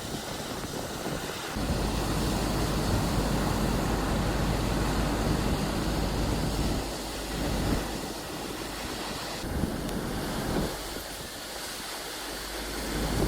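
Ocean surf and rushing water with wind buffeting the microphone. It grows louder about two seconds in and eases off after about seven seconds.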